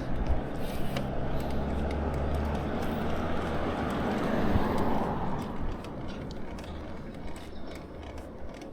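Riding noise from an electric bicycle: steady road rumble and wind rush, swelling about four to five seconds in and then easing off.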